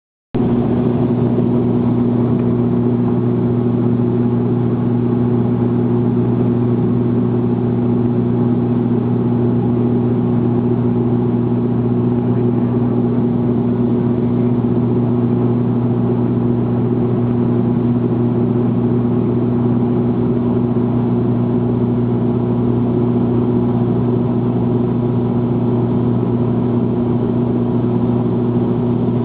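Aircraft propellers running in steady flight: a loud, unchanging hum at one low pitch with its overtones over a rushing haze, starting abruptly.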